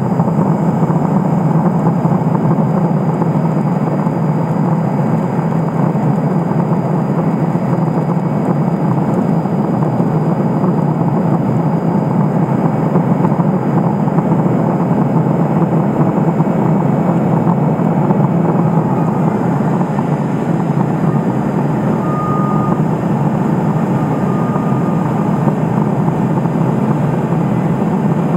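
Steady drone of a Cessna P210 Silver Eagle's turboprop engine and propeller heard inside the cockpit, with a brief high beep twice near the end.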